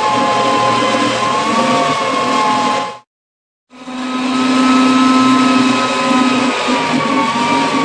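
An electric power tool's motor running steadily, its pitch wavering slightly. It drops out abruptly to silence for under a second about three seconds in, then runs again.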